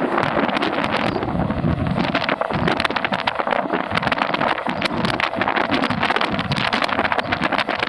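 Running noise of an electric local train heard from its open door at speed: a steady rush and rumble of wheels on rail, dense with rapid clicks and clatter, with wind buffeting the microphone.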